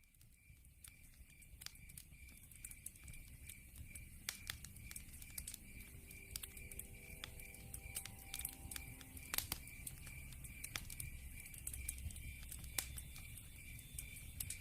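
Log fire burning: frequent sharp crackles and pops over a low rumble of flames, fading in over the first couple of seconds. A steady, high, pulsing chirp runs behind it.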